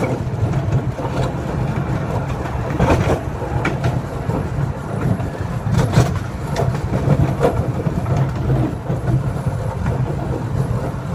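Miniature park train running along its track: a steady rumble with occasional sharp clicks from the wheels over the rail joints.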